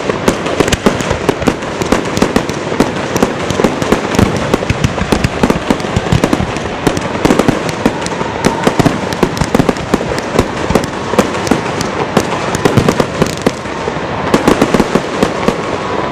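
Aerial fireworks exploding in a rapid, continuous barrage of bangs and crackles, many shells going off close together.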